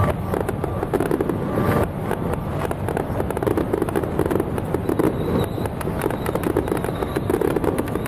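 Fireworks going off in a dense, continuous run of sharp pops and crackling bangs.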